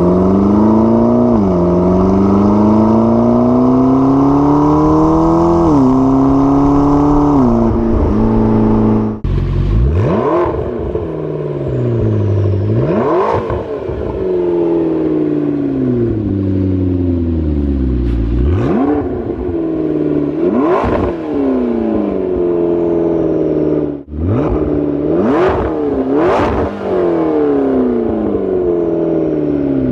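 McLaren 12C's twin-turbo V8 under hard acceleration. The engine note climbs through the gears with quick upshifts about 1.5 and 6 seconds in. From about 9 seconds on, the revs rise and fall sharply again and again, with a brief crack at several of the peaks.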